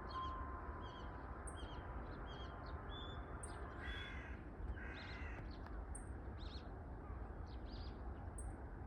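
Birds calling outdoors: small birds chirp over and over in short high notes, and two louder, lower calls come about four and five seconds in. A steady low rumble runs underneath.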